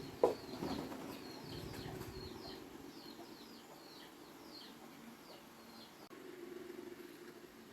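A small bird calling a run of short, high, downward-slurred chirps, about two a second, which stops about six seconds in. A single sharp knock comes right near the start and is the loudest sound.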